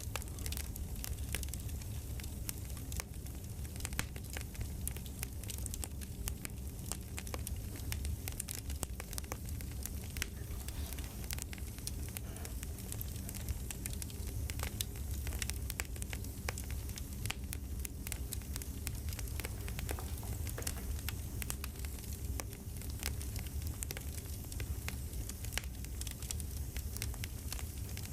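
Campfire crackling: a steady stream of irregular sharp pops and snaps over a low, steady rumble.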